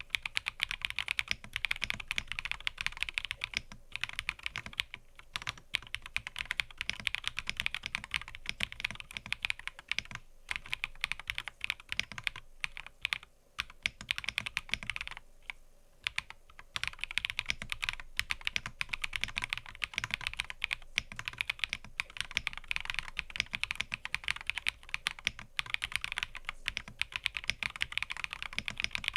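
Fast, continuous typing on a mechanical keyboard: a dense run of key clicks that eases off briefly about halfway through before carrying on.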